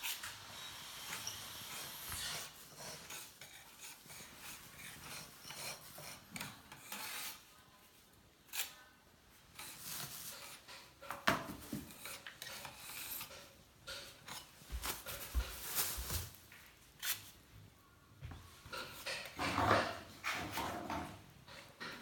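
Intermittent scraping and rasping from masonry work on Oya stone, broken by scattered sharp knocks, with a busier stretch of scraping near the end.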